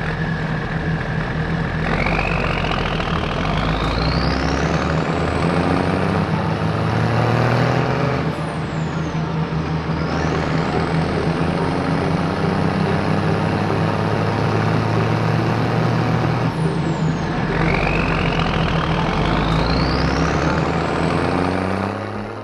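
Vehicle engine running over a steady low hum, with a whine that rises in pitch about two seconds in, falls back in the middle, and rises again near the end.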